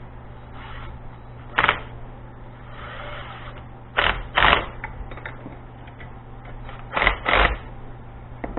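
Five sharp knocks, mostly in pairs, as a sleeve is crimped onto the steel cable of a come-along, over a steady low hum.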